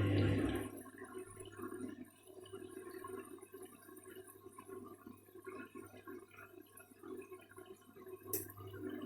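Candy washing machine on its first rinse with a full load of bedding: the drum motor stops under a second in, leaving soft, uneven water sloshing and dripping inside the drum. A single sharp click comes near the end, and the machine's sound begins building again.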